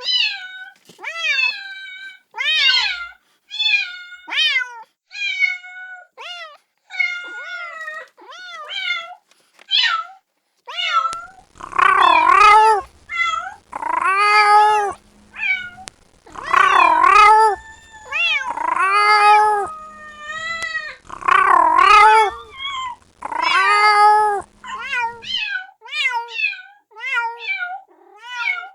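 A kitten meowing over and over to call its mother, in short, high, rapid calls. Partway through come a run of louder, longer, lower-pitched meows, then the short high calls return.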